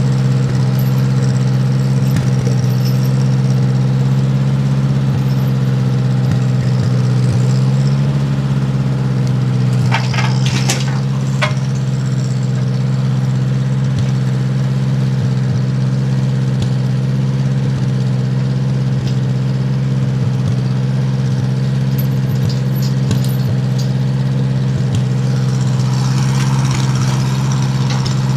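Snowblower engine running steadily while it warms up in the cold, its pitch stepping up slightly about eight seconds in. Light metallic clinks and rattles come about ten seconds in and again near the end.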